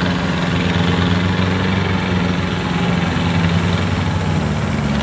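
Diesel engine of rice-harvesting machinery running steadily, with a slight shift in pitch near the end.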